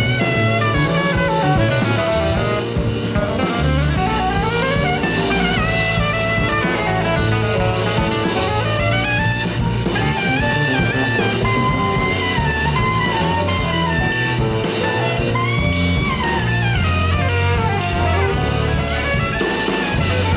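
Live jazz quintet of saxophone, piano, guitar, bass and drum kit playing an up-tempo tune, with fast running melodic lines rising and falling over a steady bass and drum groove.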